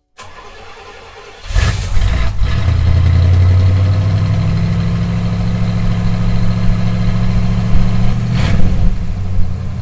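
1980 Pontiac Trans Am's V8 starting up about a second and a half in, catching with a rev, then running at a steady, deep idle out of the rear exhaust. A brief blip comes near the end.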